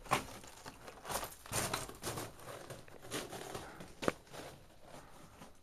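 Footsteps crunching on loose rock and gravel, uneven steps, with a sharp click about four seconds in.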